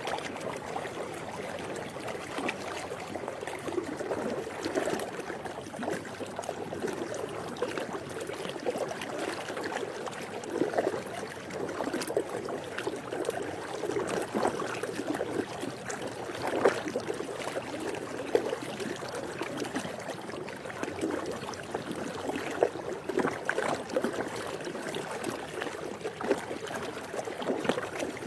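Swimming pool water lapping and splashing continuously, with many small drips and plops and a few slightly louder splashes.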